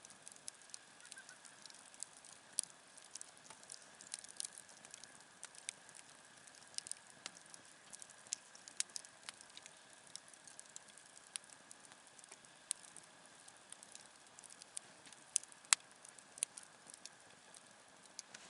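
Wood campfire crackling: irregular sharp pops and ticks over a faint hiss, with one louder pop late on.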